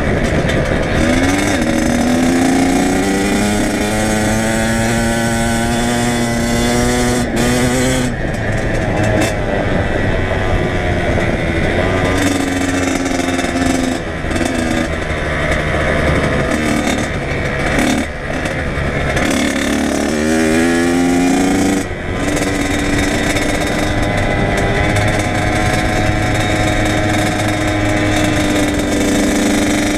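Kawasaki KX100 two-stroke dirt bike engine under way, revving up and holding, with sharp drops in pitch when the throttle is chopped, most clearly about a quarter of the way in and again about three quarters in, then rising again.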